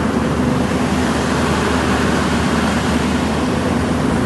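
An engine running steadily with a constant low hum and rumble, as of heavy machinery at work unloading.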